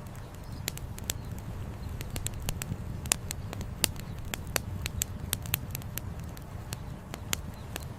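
Wood campfire crackling, with irregular sharp pops, several a second, over a steady low rush of flowing river water.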